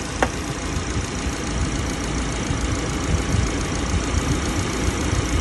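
Subaru Outback engine idling steadily with the air conditioning running at full, heard from the open engine bay. A single short, sharp click about a quarter second in.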